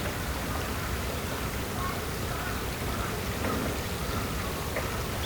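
Outdoor nature ambience: a steady rushing hiss, with faint short chirping calls from about two seconds in.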